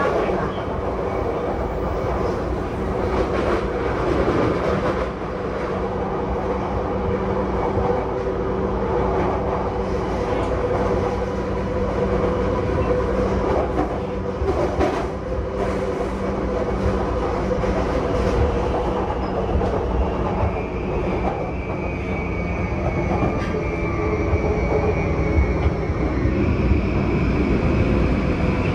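JR East E235-0 series commuter train with Mitsubishi full-SiC VVVF drive, running at speed and heard from inside the passenger car: a steady rumble of wheels and rails with a few knocks. About two-thirds of the way in, a high whine comes in and slowly falls in pitch.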